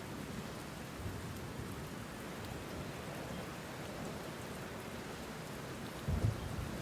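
Steady rain falling, with a short low rumble of thunder about six seconds in.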